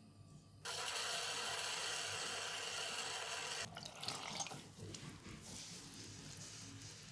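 A water tap turned on, running in a steady stream for about three seconds, then shut off suddenly, followed by fainter splashing.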